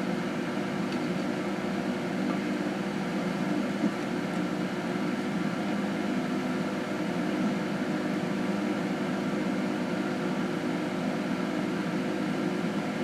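Steady machine hum: an even, unbroken drone with a few constant held tones.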